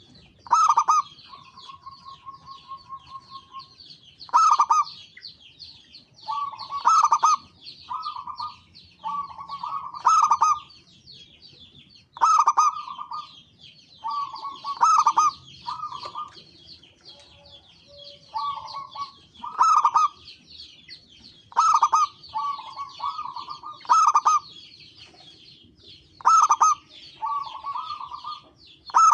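Zebra doves (perkutut) cooing: repeated short phrases of rolling coos, one every one to three seconds. A steady high twittering runs underneath.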